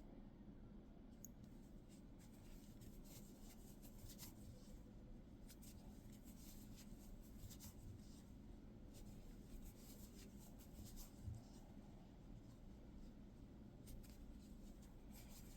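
Faint, intermittent scratchy rustling of yarn being worked with a crochet hook, over a steady low room hum.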